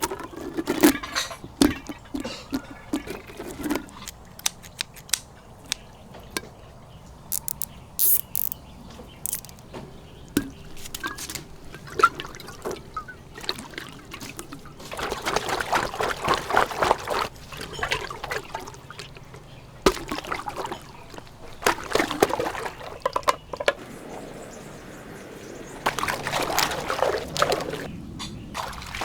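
Water pouring and trickling, coming in spells about halfway through and again near the end, with scattered sharp clicks and taps in between.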